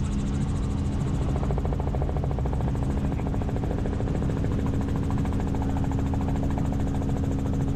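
Helicopter's engine and rotor running steadily in flight, a continuous even drone with steady low tones.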